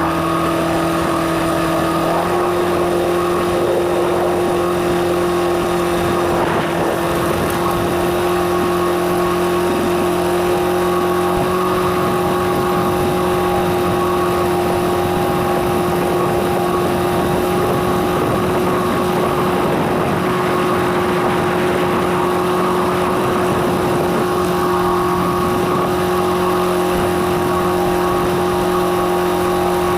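Engine of a chicken-litter spreading rig running steadily, its pitch stepping up slightly about two seconds in.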